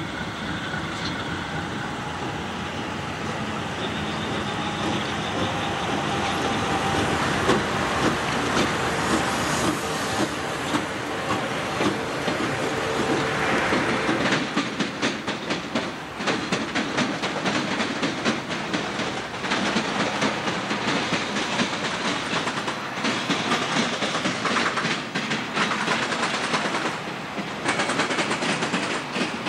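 CSX diesel freight locomotives run closer and louder as they approach and pass, then the intermodal train's cars roll by with a rapid, continuous clatter of wheels over the rail joints.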